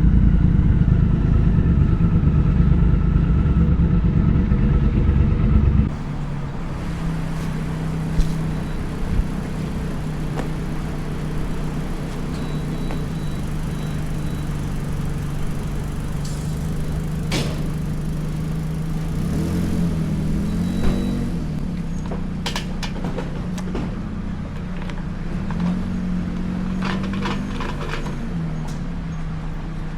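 Triumph Speed Twin 1200 parallel-twin engine heard through its exhaust, running hard under throttle, then about six seconds in dropping suddenly to a quieter, steady lower running note with a few scattered clicks.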